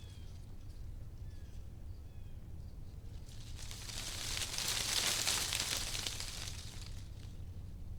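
Wind rustling through tree leaves, swelling into a gust near the middle and easing off again, over a steady low rumble. A few faint high chirps come in the first half.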